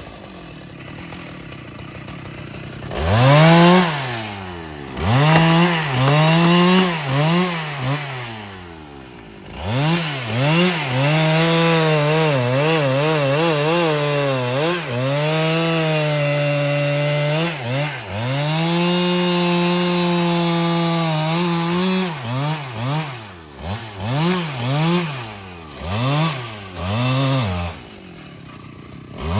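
Husqvarna 395XP two-stroke chainsaw idling, then revved in repeated bursts and held steady under load while cutting wood, with more short revs before dropping back to idle near the end.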